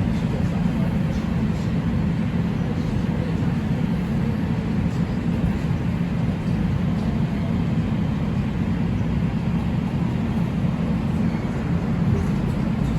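Steady low hum and rumble of an LA Metro light rail train standing at a station, with no distinct events.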